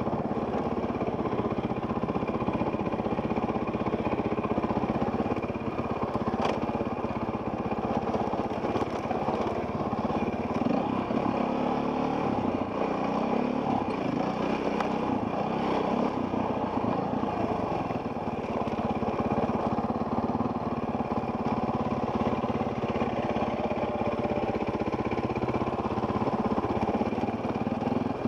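Off-road dirt bike engine running continuously while being ridden, its pitch rising and falling with the throttle through the middle stretch.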